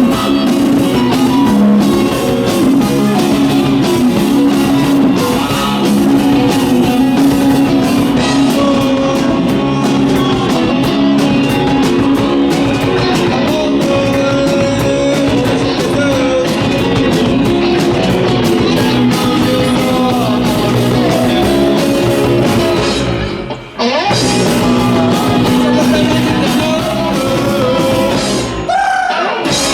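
Live rock band playing, with guitar and drum kit. The sound cuts out for a moment about three-quarters of the way through.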